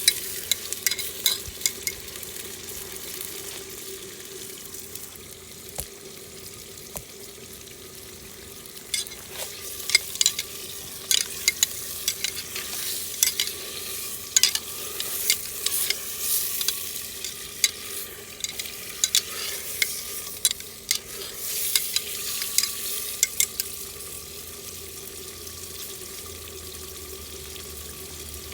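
Food sizzling as it fries in a pot over a wood fire and is stirred, with many sharp clicks and scrapes scattered through, busiest in the middle stretch.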